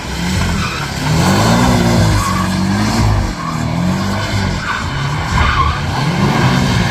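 Car drifting: the engine revs climb and fall again about five times as the driver works the throttle, with the tyres squealing in a steady hiss underneath.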